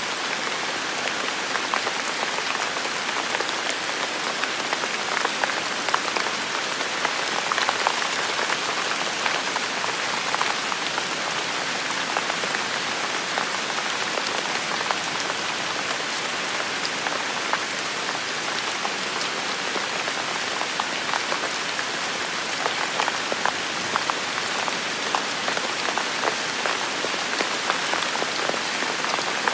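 Heavy rain falling steadily on a forest, a dense even hiss of rainfall with many individual drops pattering close by.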